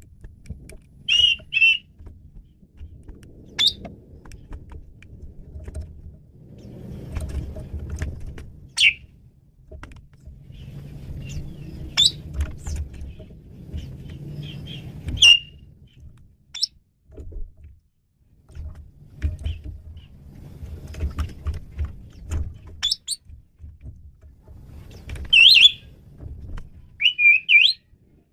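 Male Javan pied starling (jalak suren) calling: short, sharp whistles and chirps spaced a few seconds apart, several in quick pairs, over a low rumbling background noise.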